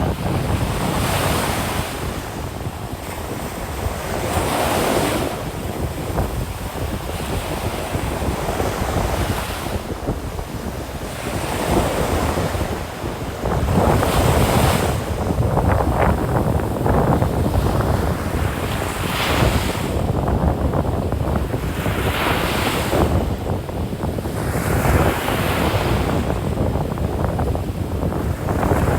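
Ocean surf breaking and washing up the beach in repeated swells every few seconds, with wind buffeting the microphone as a steady low rumble.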